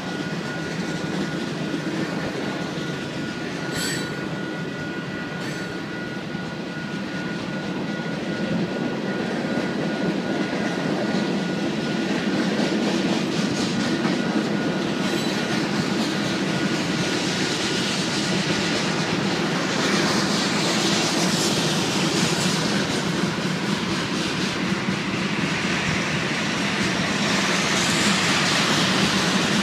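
Freight train of covered hopper cars and tank cars rolling past: a steady rumble of steel wheels on the rails. A thin high whine fades out about four seconds in, with a single clank just then; the train grows louder from about twelve seconds, with a rising high hiss from the wheels.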